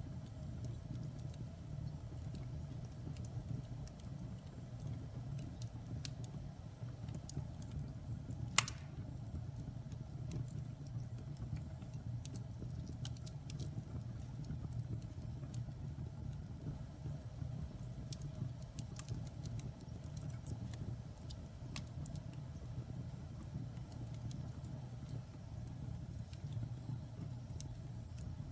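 Wood fire crackling in a fireplace: a steady low noise of the flames with frequent small crackles, and one louder pop of the burning wood about eight and a half seconds in.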